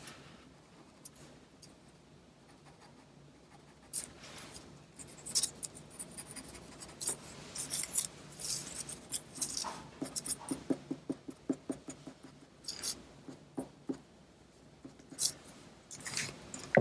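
Drawing tool scratching across paper in short strokes, colouring in the black details of a paper cut-out. Quiet for the first few seconds, then intermittent strokes, with a quick run of them about ten seconds in.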